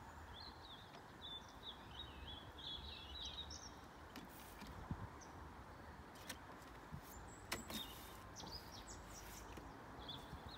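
Songbird singing a warbling phrase in the first few seconds, over faint steady outdoor background noise, with a few light clicks later on.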